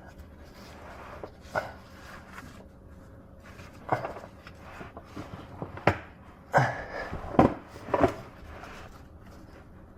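A car exhaust being yanked against its rubber hanger: about six separate sharp knocks and clunks, each a couple of seconds apart at first and then closer together, with the hanger still holding.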